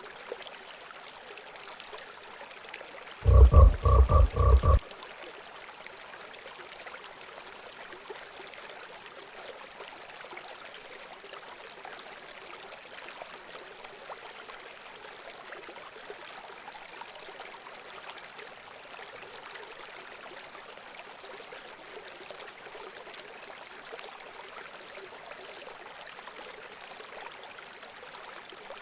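Steady running water, with one loud animal call about three seconds in: a rapid string of about six low, pitched pulses lasting a second and a half.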